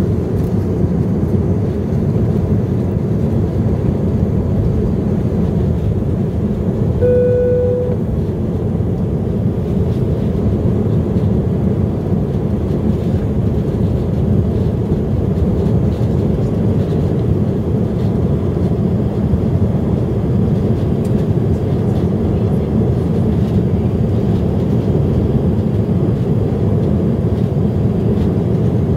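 Steady engine and airflow noise inside the cabin of an Airbus A319 airliner climbing out after takeoff. A brief single chime sounds about seven seconds in.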